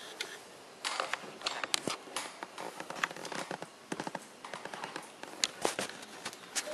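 Bullmastiff puppies' claws and paws clicking and scrabbling on a hard floor: rapid, irregular sharp taps starting about a second in.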